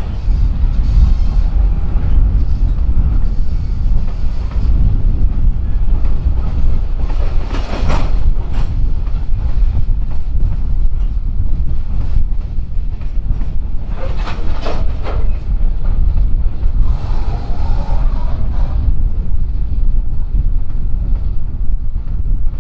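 Freight train rolling past with a heavy, steady low rumble and its wheels clacking over rail joints, with scattered sharper clicks.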